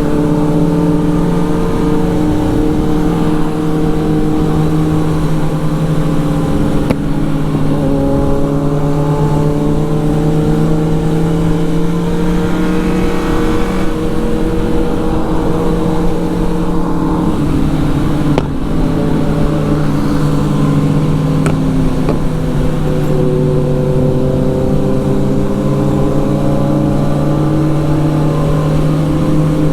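Motorcycle engine running steadily under way, its pitch drifting slowly up and down, with brief drops about a quarter of the way in and again past the middle.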